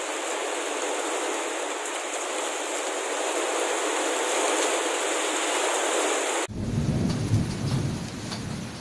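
Heavy rain falling as a steady even hiss. About six and a half seconds in, it cuts abruptly to a deep rumble of thunder that swells and fades under lighter rain with scattered ticks of drops.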